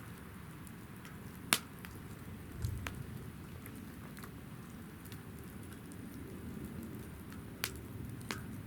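Wood fire burning in a fire-pit stand, with sharp crackles and pops over a steady low rumble. The loudest pop comes about a second and a half in, and a few more come near the end.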